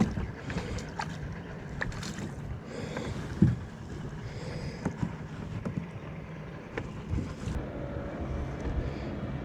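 Sounds of a kayak on the water: a steady low rumble of wind on the microphone, scattered small knocks and clicks from the hull and fishing gear, and one louder knock about three and a half seconds in.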